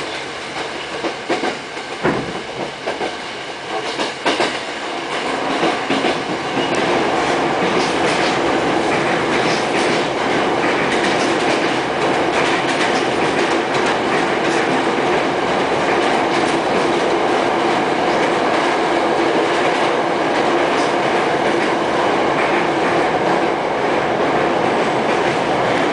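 Running noise of a Hankyu commuter train heard from inside the car: a steady rumble of wheels on rail with rail-joint clicks. It grows louder after about five seconds and then holds steady.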